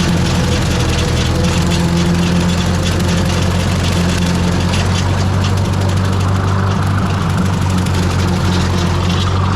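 Ford 641 tractor's four-cylinder engine running steadily under load, driving a 5-foot brush hog rotary cutter through the PTO while mowing.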